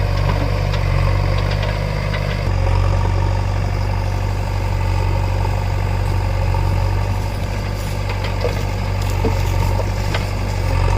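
Diesel engine of a working machine running steadily, its note shifting about two and a half seconds in, with a few faint knocks later on.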